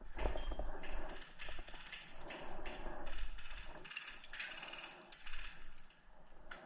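Irregular mechanical clicks and rattles, some in quick clusters, over a rustling background.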